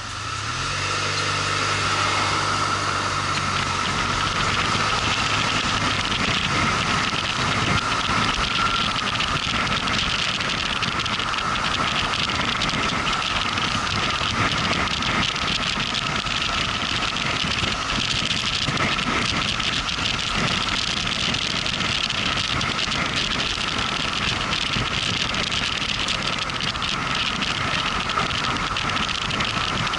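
Motorcycle riding on the road: a steady engine note that grows louder over the first couple of seconds, then gives way to a steady rush of wind and road noise as the bike keeps moving.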